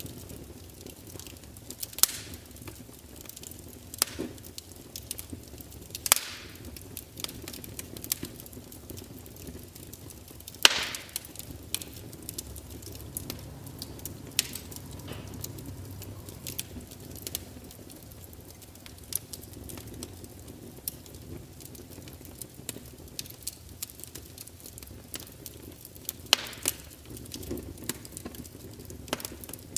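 Burning wood fire crackling, with a scatter of small ticks and several louder sharp pops every few seconds over a steady low hiss; the loudest pop comes about a third of the way in.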